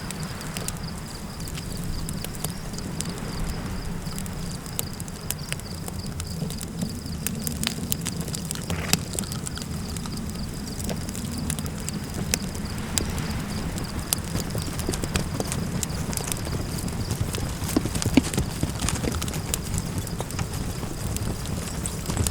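Campfire crackling with irregular sharp pops and snaps over a steady low rumble of desert wind, with a faint steady high tone running underneath.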